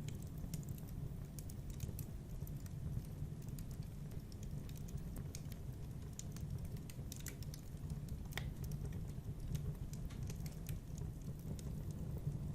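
Wood fire crackling in a fireplace: irregular sharp pops and crackles over a steady low rumble of the flames.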